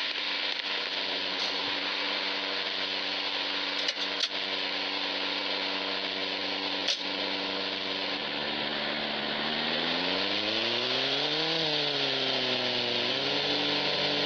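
Car engine running steadily under a wide hiss of road and wind noise. The engine pitch climbs from about eight seconds in and drops back near the end as the revs rise and fall. A few sharp clicks come in the first half.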